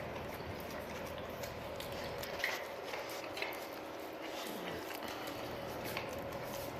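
A dog eating an omelet from a bowl: faint chewing and licking, with a couple of small clicks.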